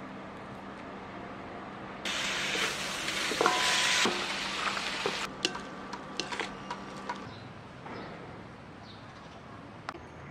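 Oil sizzling in a wok as food is stir-fried: a loud burst of frying starts suddenly about two seconds in, followed by a run of sharp knocks and scrapes of the spatula against the wok before it quietens.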